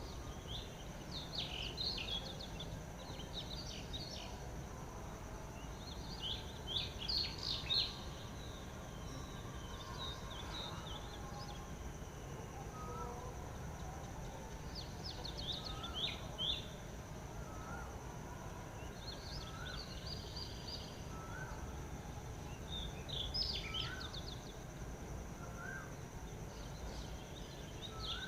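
Wild birds chirping in repeated bursts of quick high notes over a steady high-pitched insect drone. From about halfway in, another bird repeats a short rising call every second or so.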